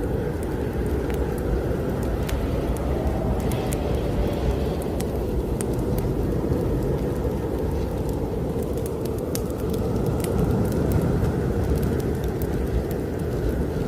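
Strong snowstorm wind blowing steadily, with a wood fire crackling in a fireplace: many small sharp pops scattered over the wind.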